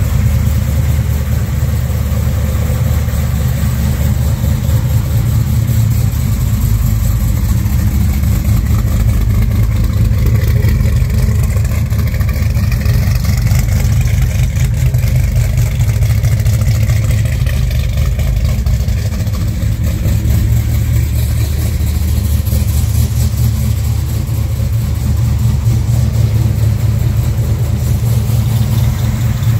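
1967 Chevrolet Chevelle SS's V8 engine idling steadily through its dual exhaust, a deep, even rumble.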